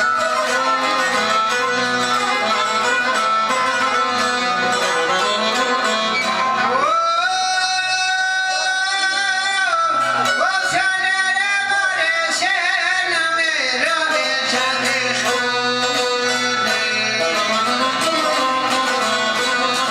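Albanian folk music: plucked strings and fiddle play over a steady beat, and a strong, held, ornamented lead melody comes in about seven seconds in and runs for about seven seconds before the accompaniment carries on.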